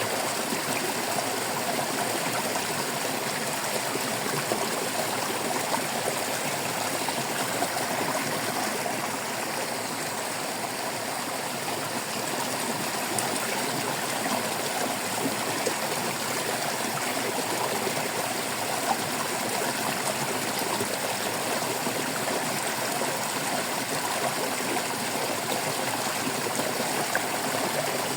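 Water trickling and babbling in a small stream, a steady splashing with many small gurgles.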